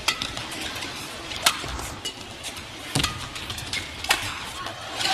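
Badminton rackets striking the shuttlecock in a rally: four sharp hits about a second and a half apart, over steady arena background noise.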